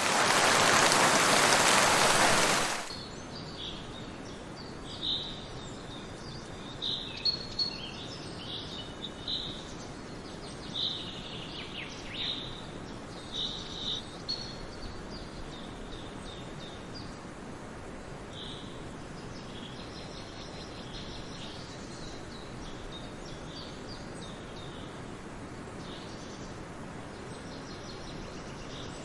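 A loud burst of hiss lasts about three seconds. Then comes forest ambience: several small songbirds chirp and sing in short high phrases over a steady background hiss, busiest in the first half and thinning out later.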